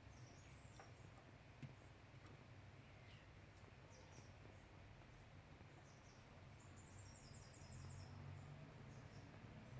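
Near silence: faint, short high chirps of small birds over a low background hum.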